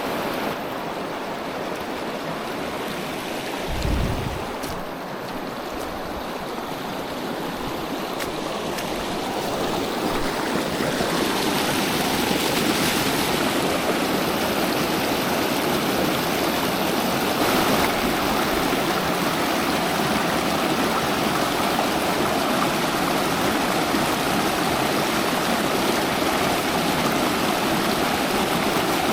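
River water rushing and splashing in a steady wash that grows louder about a third of the way in. A brief low thump comes about four seconds in.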